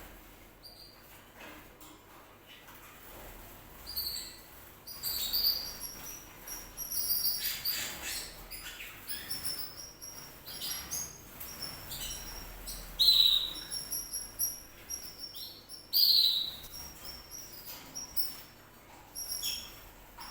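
Canary chirping and twittering in quick, high bursts, with two louder notes sweeping downward in the second half.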